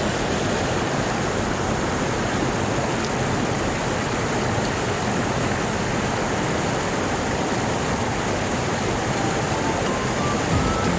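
Mountain stream water rushing over rocks, a steady, even rush of running water.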